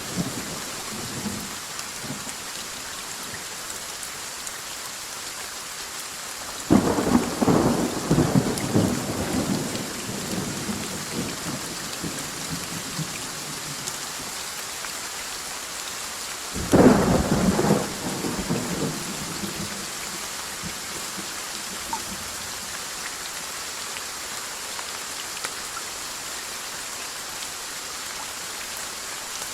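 Steady rain falling throughout, with two sudden thunderclaps, about seven and seventeen seconds in, each rumbling away over a few seconds. The tail of an earlier rumble fades out at the start.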